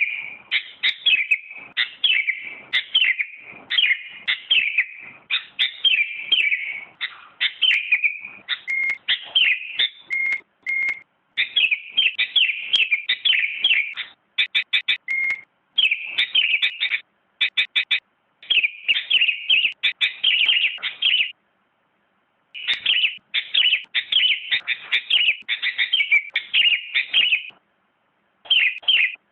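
Sooty-headed bulbul (kutilang) singing a long run of fast, chattering chirps, broken by a couple of brief pauses.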